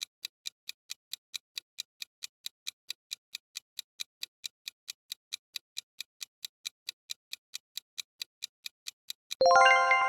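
Countdown-timer sound effect: even clock ticks at about four or five a second, then near the end a loud bright bell chime of several tones that rings on and fades, marking time up.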